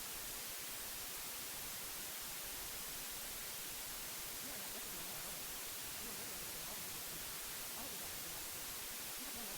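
Steady white noise hiss, with faint subliminal affirmations (a quiet spoken voice) masked beneath it.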